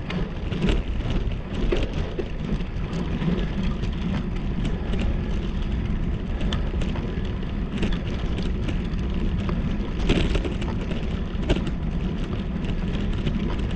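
Rain spattering on the microphone of a camera riding on a bicycle in the rain, with a steady low wind rumble and frequent small ticks of drops hitting it.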